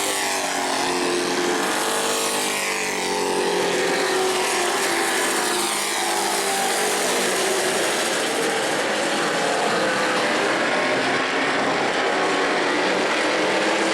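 A pack of short-track racing trucks running at speed, engines loud and steady, with several passing close by and dropping in pitch as they go past in the first few seconds.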